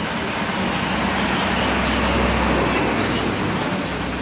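Road traffic noise in which a heavy vehicle's engine rumble swells, loudest about halfway through and easing near the end.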